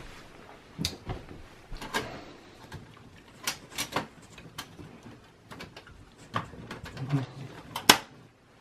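Irregular clicks and knocks of metal and plastic parts being handled as the expansion-slot bracket is fitted back into a desktop computer case, with the loudest knock near the end.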